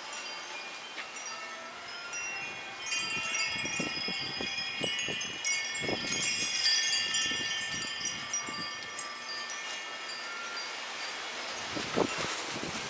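A display of many wind chimes ringing together, set swinging by strong gusting wind; the clustered high ringing tones are busiest for several seconds in the middle.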